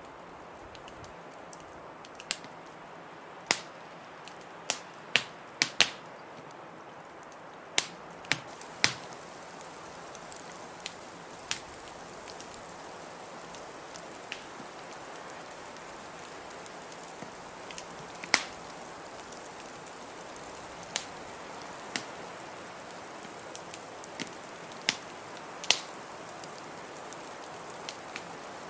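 Wood fire in a fireplace crackling, with sharp pops at irregular intervals over a steady hiss of blizzard wind.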